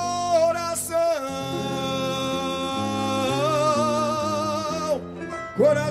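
Samba singing: a voice draws out the last word 'coração' in long held notes, the second with a wavering vibrato, over accompanying chords that change underneath. A new sung phrase starts near the end.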